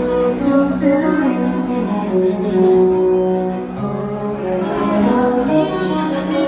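A song performed live: a woman singing a melody over musical accompaniment.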